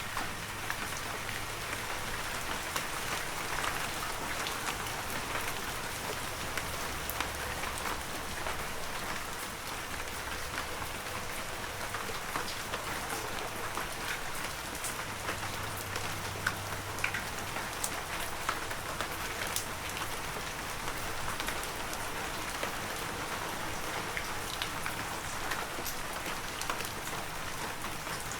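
Heavy rain falling steadily, an even hiss with many individual drops ticking through it.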